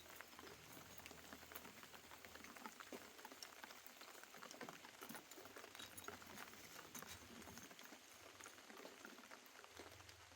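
Faint rain pattering, a steady hiss dotted with many small irregular drop ticks.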